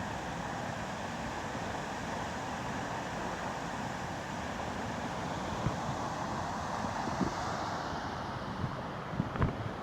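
Wind and road noise rushing over the action camera's microphone on a moving Yamaha MT-03 motorcycle. The hiss eases about eight seconds in as the bike slows, and a few short thumps come near the end.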